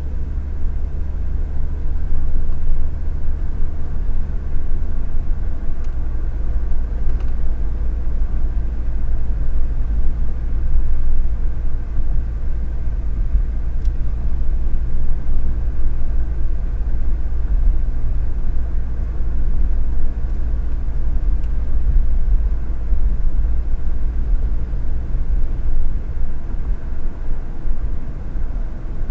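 Car interior noise while driving, picked up by a windshield dash cam: a steady low rumble of engine and tyres on the road, the low drone dropping slightly about six seconds in.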